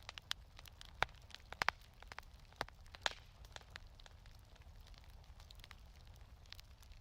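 Wood fire crackling in a fireplace: irregular sharp pops and snaps, the louder ones in the first three seconds, over a low steady rumble.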